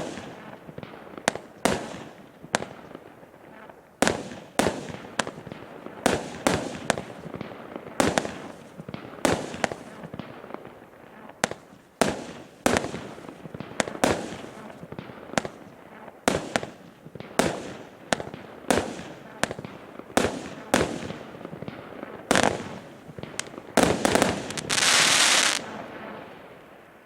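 Mean Streak multishot firework cake firing a long string of shots, a sharp bang about every half-second to second. Near the end comes a dense, loud rush lasting about a second, and then the sound fades out.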